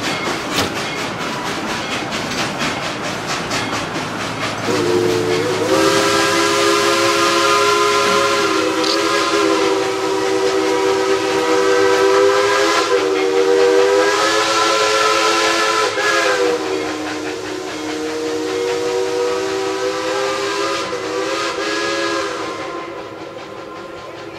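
Steam locomotive No. 190's multi-note chime whistle blown in about three long, drawn-out blasts with slight bends in pitch, over steam hiss and the engine's exhaust beats as it pulls out with its train. The whistle starts about five seconds in, after some seconds of exhaust beats alone, and the sound fades near the end.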